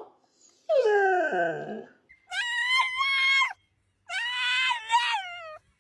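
Dog answering its owner with three drawn-out whining howls. The first slides down in pitch, the second is higher and held, and the third is held and dips at the end.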